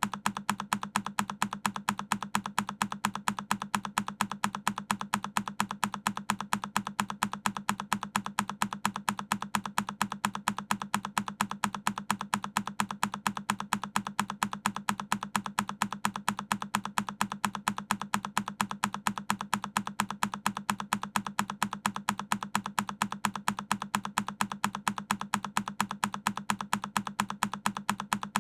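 A single key on a Keychron K10 mechanical keyboard being pressed over and over, a sharp click repeated rapidly at perfectly even spacing like a machine loop.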